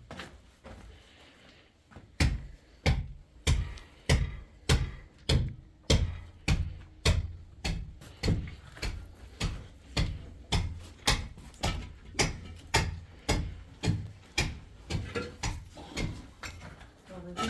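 A steady series of sharp thuds, about three a second, starting about two seconds in: something being struck or pounded over and over.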